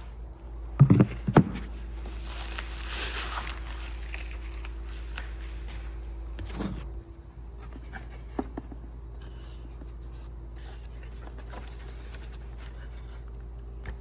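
A package being opened and handled to take out a magnetic PEI flex build plate: two sharp knocks about a second in, a second or so of rustling, another knock partway through, then scattered small clicks and taps over a steady low hum.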